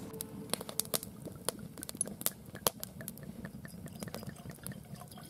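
Wood campfire crackling, with irregular sharp pops and snaps several times a second over a low steady rush of burning.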